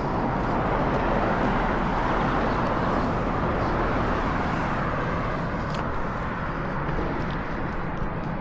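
Steady rushing roar of distant road traffic, swelling slightly in the first few seconds and then easing a little.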